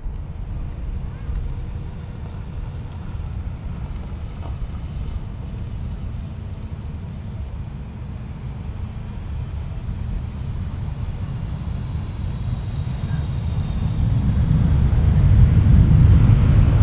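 Jet airliner engines rumbling, growing louder over the last few seconds as the aircraft comes closer, with a faint high whine, and wind buffeting the microphone.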